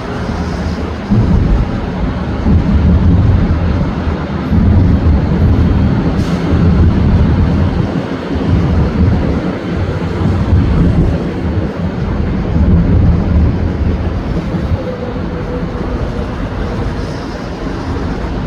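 Fireworks display heard as a continuous rumble of distant booms merging into one another, rising and falling in strength, with one sharper crack about six seconds in.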